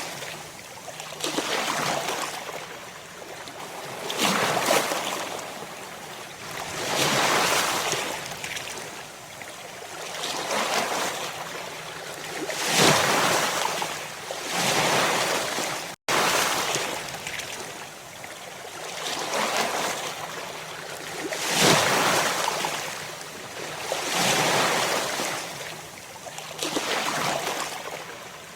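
Ocean waves breaking on a shore, one rushing surge after another about every two to three seconds, each swelling and fading away. About halfway through, the sound cuts out for a split second.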